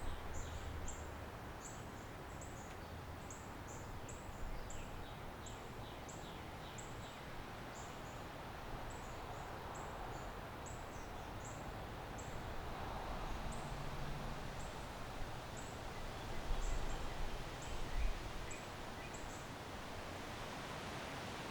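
Backyard ambience: a steady wash of wind in trees and distant city noise, with short high chirps from a small bird or insect repeating one or two a second throughout. A few low bumps stand out near the start and again near the end.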